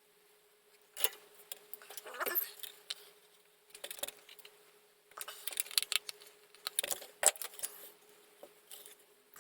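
Small hard parts and tools handled on a workbench: a run of irregular clicks, taps and short clattering scrapes, over a faint steady hum.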